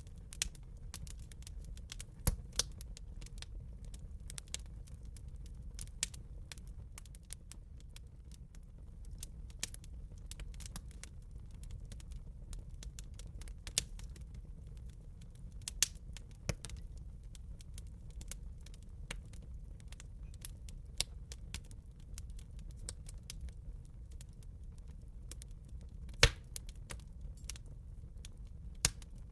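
Wood fire burning in a fireplace: a steady low rumble of the flames with sharp, irregular crackles and pops, one louder pop near the end.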